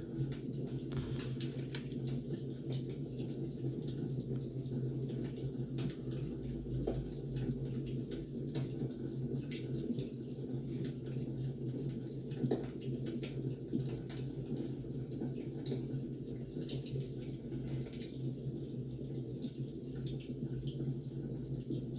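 Firewood burning, crackling with irregular sharp pops and snaps over a steady low rumble.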